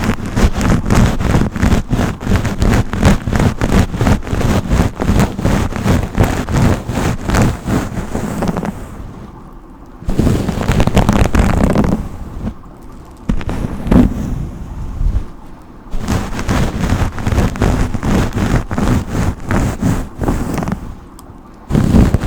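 A hairbrush drawn through hair close to the microphone, a long run of quick, crackling bristle strokes with a few short pauses.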